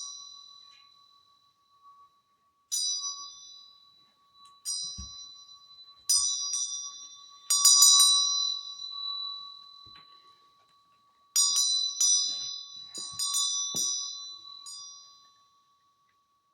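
Small high-pitched hand bell rung in several bursts of quick strikes with pauses between, each ring fading out; the ringing stops shortly before the end. A faint steady tone sounds underneath.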